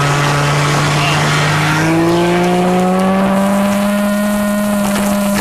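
Small pull-start two-stroke engine with an expansion-chamber resonator running under way. Its pitch rises over a couple of seconds around the middle as it speeds up, then holds steady.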